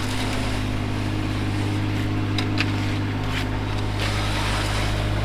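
Engine running steadily at constant speed, with a few short clicks about two and a half and three and a half seconds in.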